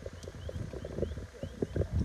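Wind rumbling and buffeting on the microphone, with a faint high chirp repeating about three times a second.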